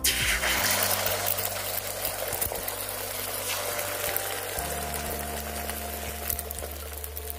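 Beaten eggs poured into hot oil in a kadai, sizzling sharply as they hit and then frying steadily. The hiss is loudest in the first second and eases a little after.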